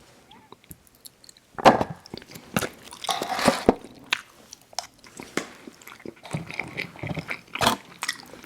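A person eating crispy fried fast food close to the microphone: crunchy bites and wet chewing. It starts with a loud crunch after a short quiet spell, then goes on with irregular smacks and crunches and another sharp crunch near the end.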